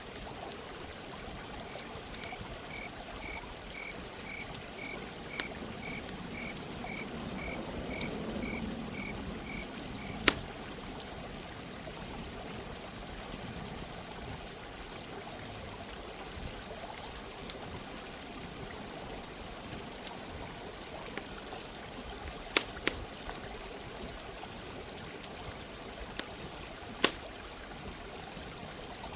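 Steady running water from a stream, with the sharp pops of a crackling campfire, loudest about a third of the way in and twice near the end. Early on, a high, evenly repeated peeping call, about two notes a second, sounds for several seconds over the water, then stops.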